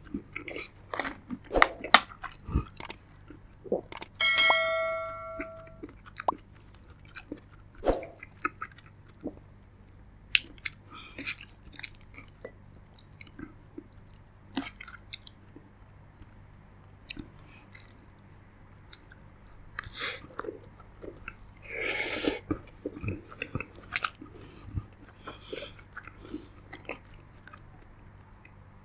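Close-miked chewing and biting of a mouthful of spaghetti, meatballs and fried spring rolls: wet smacking with many small clicks. A brief ringing tone sounds about four seconds in, and a longer noisy burst comes a little past two-thirds through.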